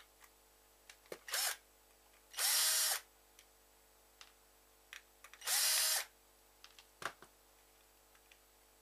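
Small electric screwdriver spinning in three short bursts, a brief one and then two of about half a second, each whine rising and falling, as it backs out the tiny screws holding the mouse's scroll-wheel light. Light clicks of the screws and plastic parts come between the bursts.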